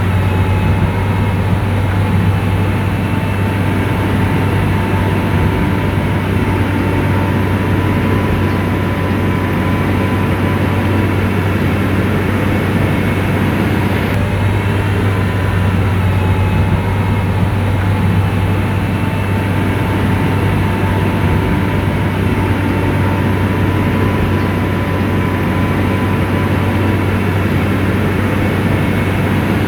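Komatsu bulldozer's diesel engine running steadily under load, a constant low drone with an even hum and a faint steady whine above it.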